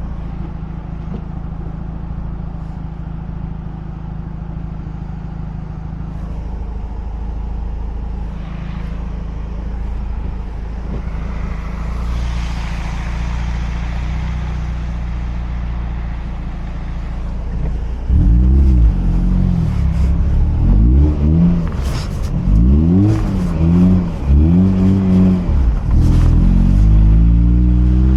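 Mazda RX-8's two-rotor rotary engine running steadily at low revs. About two-thirds in it gets much louder and revs up and down several times in quick succession, then holds a steady higher drone.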